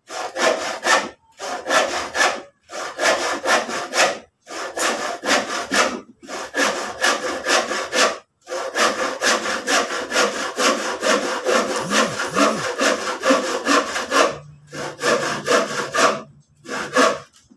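Hand saw cutting through a piece of old lumber in quick, even back-and-forth strokes. The strokes come in runs of a few seconds with short pauses between, and stop near the end.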